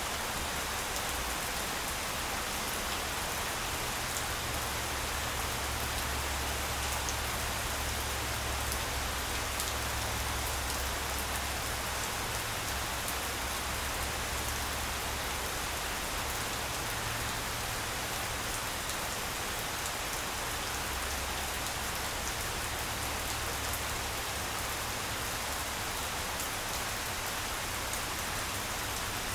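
Steady rain falling on grass, with scattered individual drop ticks. A low rumble swells underneath twice.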